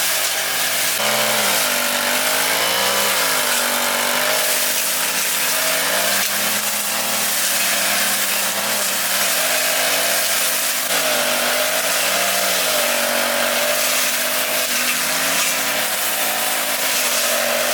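Lawn mower motor running steadily, its pitch dipping and rising again several times, over a constant high hiss.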